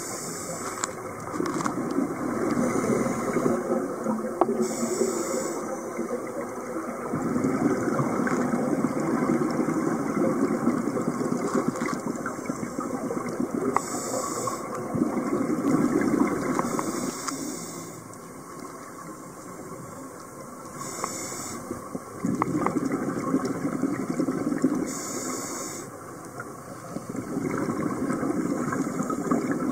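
Rough sea water rushing and surging, swelling and easing every few seconds as waves come through.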